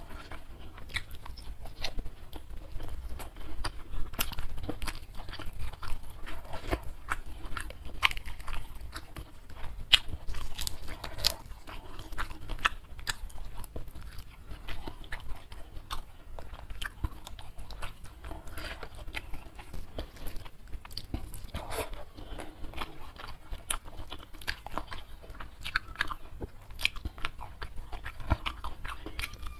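Close-miked chewing and crunching of crispy fried catfish eaten by hand with rice, in many irregular crackles and clicks.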